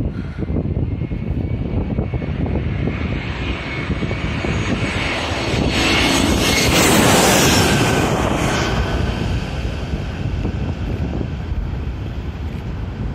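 Airliner passing low overhead: its engine noise swells to a peak about halfway through and then fades, with a whine that drops in pitch as it goes by. Gusty wind rumbles on the microphone throughout.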